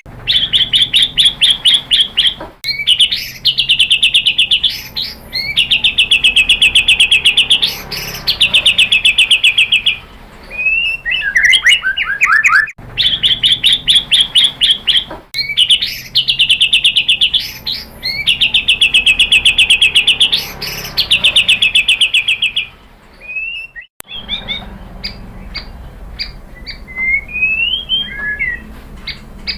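White-rumped shama (murai batu) singing: long bursts of rapid, evenly repeated notes with short breaks between them, the same run of song repeating about halfway through. Near the end it changes to scattered short chirps and whistles.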